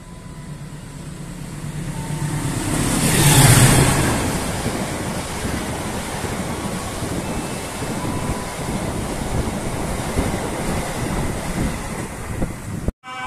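A train passing close by: the rumble builds to its loudest about three and a half seconds in, then carries on steadily as the cars roll past over the rails, and cuts off abruptly near the end.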